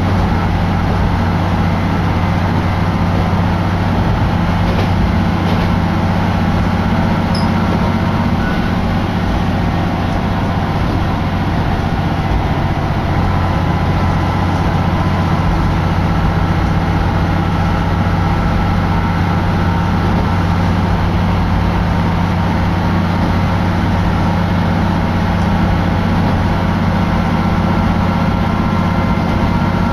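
Steady running noise inside a moving diesel railcar: a constant low engine hum under the even noise of the train under way.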